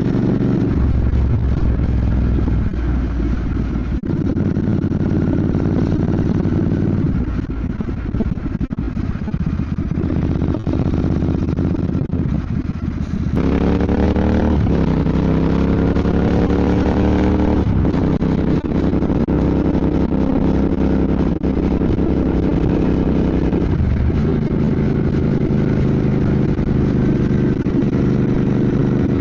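Royal Enfield Bear 650's 648 cc parallel-twin engine running on the move. Its pitch shifts in steps several times, with a clear rising rev about halfway through.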